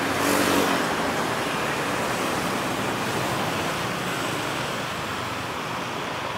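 Diesel-hauled passenger train running away along the track, its rumble slowly fading into a steady outdoor hiss.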